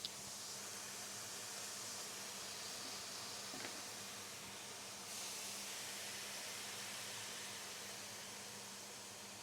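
Faint steady hiss of a pan of coconut milk heating on the stove over low heat, with a click at the start and a light tap partway through; the hiss grows a little louder about five seconds in.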